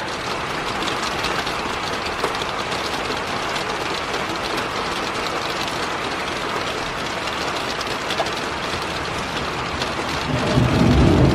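Heavy rain pouring down steadily, the drops pattering hard as they splash and bounce off surfaces. Near the end a gust of wind swells in as a louder low rumble.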